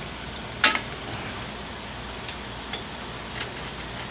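A few short metallic clicks and clinks of drum-brake springs and hardware being handled, the sharpest about half a second in, then lighter ones spread through the rest.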